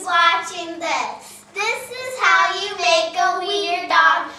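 A young girl's high voice singing, with held, gliding notes and a short break about a second and a half in.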